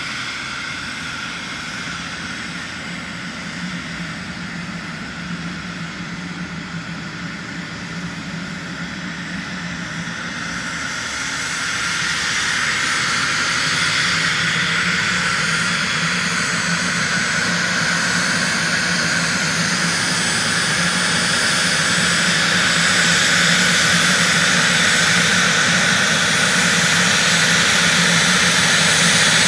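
Cessna Citation Bravo's twin Pratt & Whitney Canada PW530A turbofans running at taxi power, a steady jet whine that grows louder about a third of the way in as the jet comes closer.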